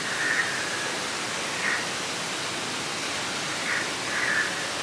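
Steady rushing noise, with a few faint short higher sounds in it: one early on, one about a second and a half in, and two more near the end.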